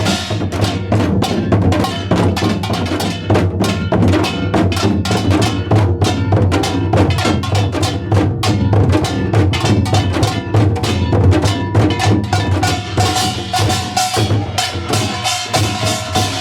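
A Korean pungmul percussion group playing together: janggu hourglass drums and a kkwaenggwari small gong in a fast, dense rhythm of many strokes a second.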